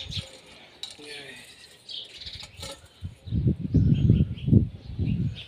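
Small birds chirping repeatedly from about halfway through, over louder low, irregular rumbling bursts, with a few faint clicks in the first half.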